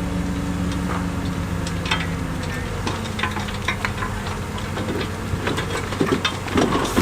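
Diesel engine of heavy earthmoving machinery running steadily, its pitch shifting a little about halfway. From about five seconds in, irregular knocks and rattles of stone build up over the engine.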